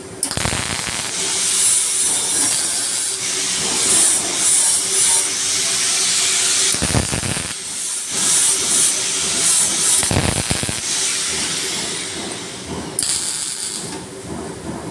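CO2 MIG welding arc crackling and hissing almost without pause. It dips briefly twice and stops about 13 seconds in.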